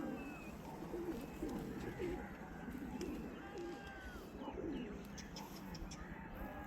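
Pigeons cooing: a run of low, warbling coos repeating every second or so, with some thin higher calls over them and a few short clicks near the end.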